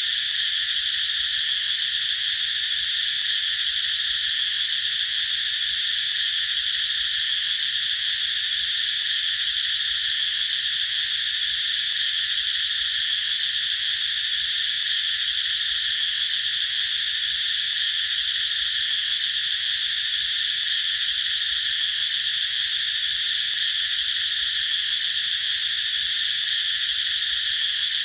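Cicadas singing in a continuous, steady high-pitched drone that does not rise or fall.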